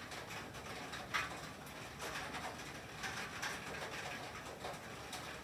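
Rain and sleet falling on a tin roof: a steady hiss with a scatter of irregular taps.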